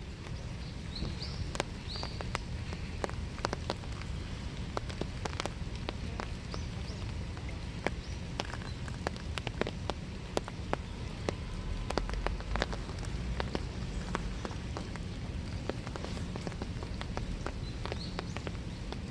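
Winter rain falling in a small wood: many close drops tapping sharply and irregularly over a steady low rumble. A few brief high chirps come near the start and again near the end.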